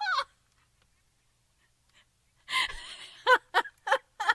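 A person's voice: a short voiced sound, a pause, then a breathy gasp followed by four short, quick voiced bursts like a giggle.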